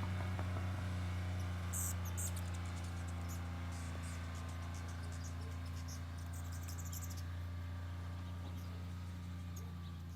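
Steady low hum, slowly fading, with faint high-pitched chirps above it for a few seconds.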